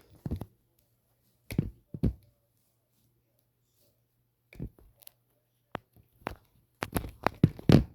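Scattered short clicks and knocks, clustered toward the end, over a faint steady low hum.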